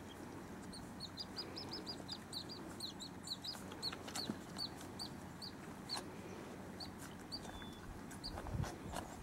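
A bird calling a long run of short, high chirps that slide down in pitch, quick at first and then slowing and spacing out over several seconds. A low thump comes near the end.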